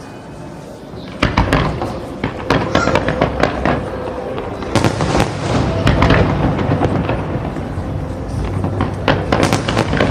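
Festival fireworks bursting in rapid succession, sharp bangs and crackles over a low rumble, starting about a second in.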